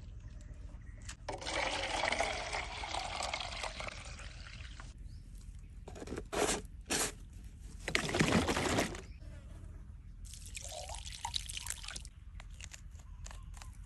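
Liquid pouring and trickling in several separate spells, with a couple of short louder splashes in the middle.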